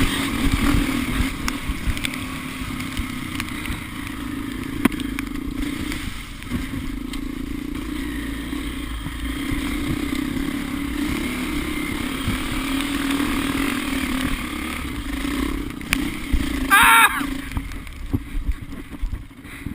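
Off-road vehicle engine running at a steady, low speed while crawling down a slick trail, with low rumble underneath. About seventeen seconds in, a brief wavering higher sound cuts through.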